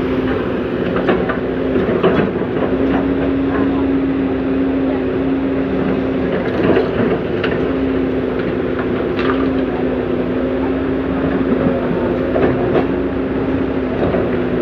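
Komatsu PC200CE hydraulic excavator's diesel engine running at a steady pitch, with sharp metallic clanks and knocks from the working machine scattered through.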